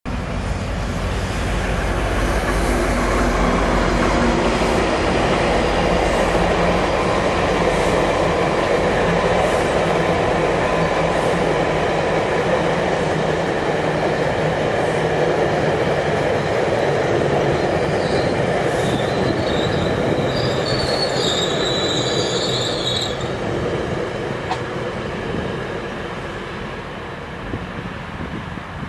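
GO Transit commuter train of BiLevel coaches rolling past as it slows for a station, a steady rumble of wheels on rail, heaviest at the start. High-pitched wheel and brake squeal from about 18 to 23 seconds in as it brakes, and the rumble eases near the end as the last car goes by.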